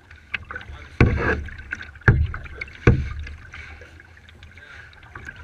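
Kayak being paddled: a sharp knock or splash with each paddle stroke, about one a second, then only quieter water noise in the second half.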